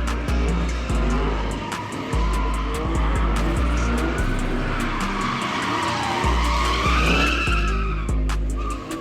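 Car tyres squealing in a burnout or slide: a wavering squeal that climbs in pitch about seven seconds in. It sits over music with a heavy bass beat.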